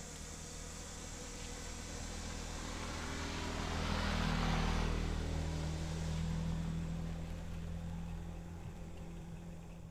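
Truck engine running, growing louder to a peak about halfway through, then easing off again.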